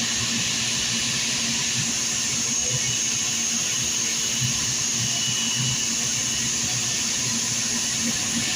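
A machine running steadily: an even hum with a hiss above it, unchanging throughout.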